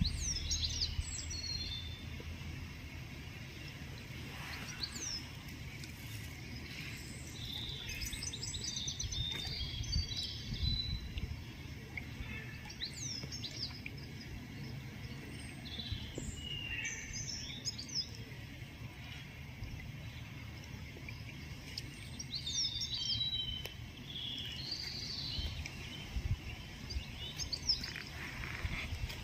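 Songbirds chirping and calling, many short notes and quick whistles scattered throughout, over a steady low outdoor rumble.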